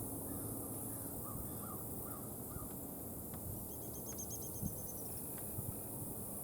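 A red-bellied woodpecker pecking at a pecan: a few faint, sharp taps spread through the middle of the clip. These sit over a steady low outdoor rumble. Early on a distant bird calls four times, and about midway another bird gives a rapid high trill.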